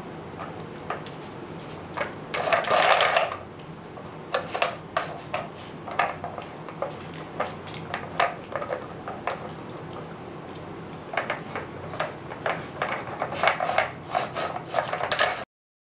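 Pieces of a plastic treat-puzzle toy clicking and clattering as a pet noses and paws them aside, in irregular knocks with busier rattling bursts about two seconds in and again near the end, cutting off abruptly.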